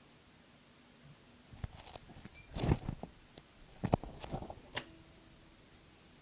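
Handling clatter in a microwave oven: a run of knocks and clicks over about three seconds, the loudest two about a second apart, ending in a sharp latch-like click as the door shuts.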